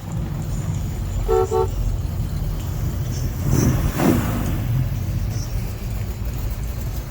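Car engines rumbling as cars roll past, with two quick car-horn toots about a second and a half in and a louder pass around four seconds in.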